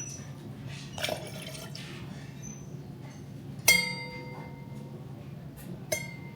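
Glassware clinking: a sharp knock a little past halfway that rings on for about a second, and a second, shorter clink near the end, with a brief scrape about a second in.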